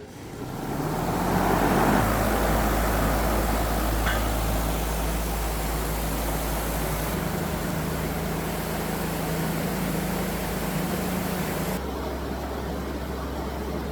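A motor or engine comes up over the first couple of seconds and then runs steadily with a low hum, its tone shifting abruptly about seven and again about twelve seconds in.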